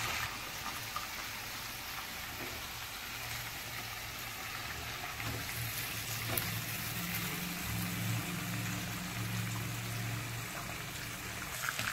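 Chicken pieces frying in hot mustard oil in a kadhai, a steady sizzle.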